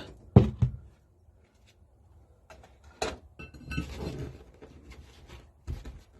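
Knocks and clinks of small metal engine parts being handled and set down on a workbench during a strip-down: two sharp knocks about half a second in, a click about three seconds in, then light scraping and rattling with another knock near the end.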